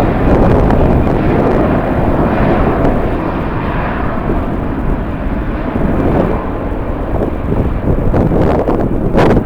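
Jet airliner engines running: a loud, steady rumbling roar, mixed with strong wind on the microphone. There is a short sharp burst near the end.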